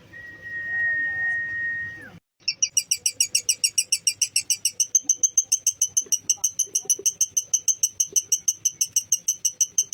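A steady high whistled note held for about two seconds, then after a short break a lovebird's long ngekek trill: shrill chirps repeated very fast, about eight a second, rising a little in pitch and carrying on without pause.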